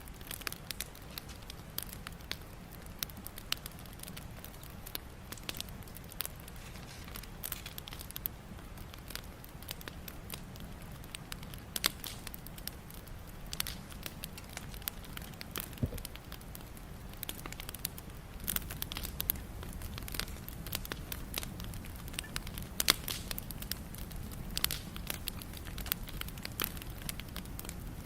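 Wood fire crackling: irregular pops and snaps over a steady low rumble of the burning fire, with a couple of louder snaps.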